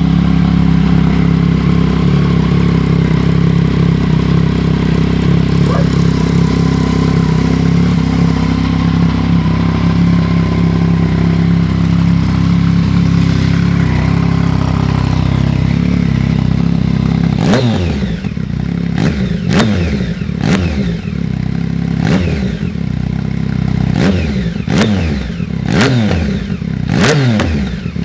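Yamaha MT-09/FZ-09/XSR900's 847 cc three-cylinder engine, breathing through Black Widow aftermarket exhausts, running at a steady note for the first two-thirds. It then gets a rapid series of sharp throttle blips, revs shooting up and dropping straight back, about a dozen times.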